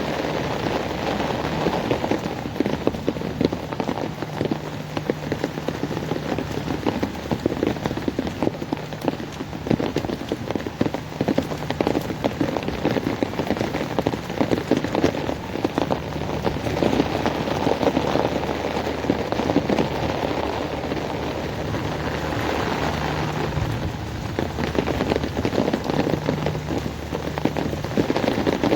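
Heavy rain falling on hard surfaces: a steady, dense patter of drops.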